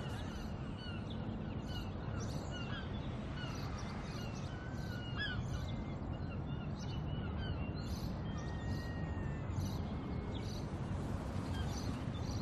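Birds chirping in many short, high calls scattered throughout, over a steady low outdoor rumble.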